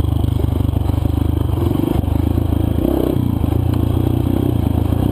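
Single-cylinder four-stroke trail bike engine running steadily under a light, even throttle, with a brief dip about three seconds in.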